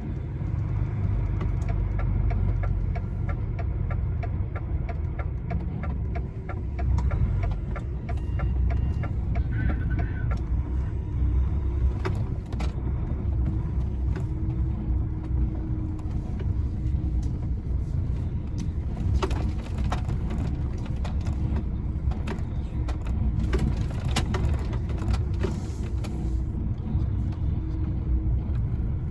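Lorry's diesel engine running steadily at low revs, a continuous low rumble, with scattered light clicks and knocks over it.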